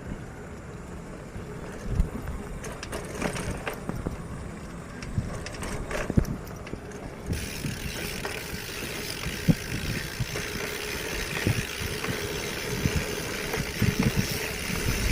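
Bicycle riding noise: a steady rumble from the tyres and frame with scattered clicks and knocks as the bike rattles over the road. A higher hiss joins about seven seconds in.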